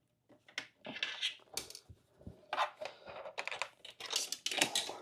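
Hands working on motorcycle parts: irregular rustling, scraping and small clicks, with tearing- or crinkling-like noises.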